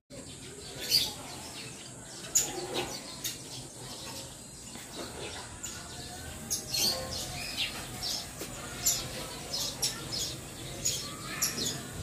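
Birds chirping: short, high chirps come every second or so throughout, over a faint steady hiss.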